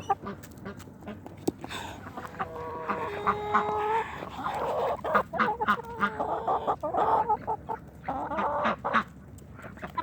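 Flock of chickens clucking in short repeated calls while feeding on scratch grain, with many brief sharp clicks among the calls.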